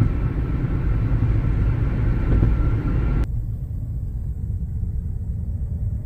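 Steady low rumble of a car on the road, with road and wind noise carrying up into a hiss. About three seconds in, the hiss cuts off and only the low rumble remains.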